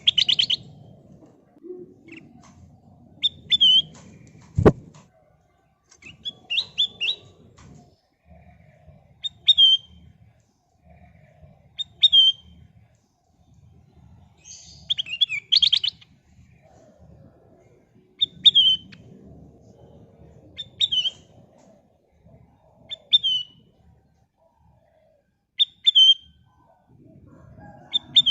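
Kutilang emas bulbul calling: short, sharp chirped phrases about every two to three seconds, two of them quick rattling bursts, over a faint low rumble, with one sharp click about five seconds in.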